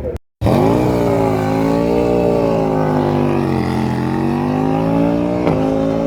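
Racing motorcycle engine running at high revs, its pitch climbing sharply just after the start, sagging a little around the middle and rising again toward the end.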